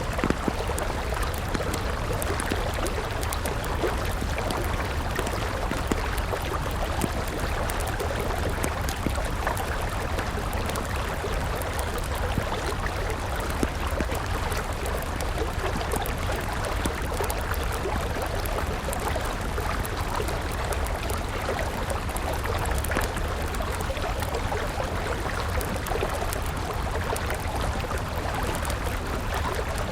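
Steady rush of a flowing river mixed with a crackling wood campfire, with frequent small pops and snaps from the burning wood.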